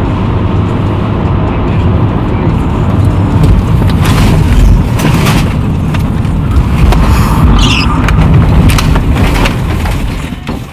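A car is heard from inside, running with a loud, dense low rumble as it slides out of control. From about four seconds in, a string of knocks and rattles joins it, with a brief high squeal near the middle.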